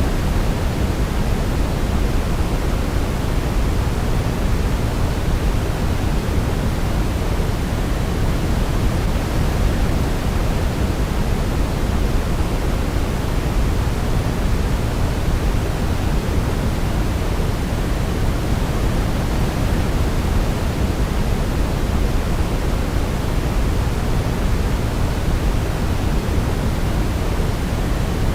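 Steady, unbroken sleep noise, deep rather than hissy, like pink noise, with no melody audible over it.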